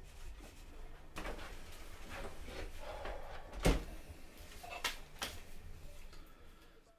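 A few short knocks and clicks over low room noise, the sharpest a little past halfway through.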